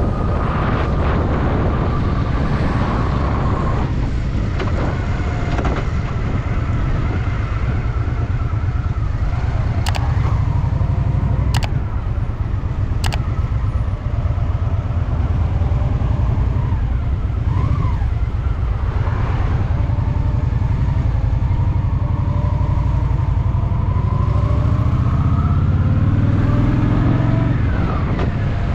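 Honda Shadow VT750's V-twin engine running under way, with a steady low rumble. Three sharp clicks come around the middle, and the engine note rises near the end as the bike accelerates.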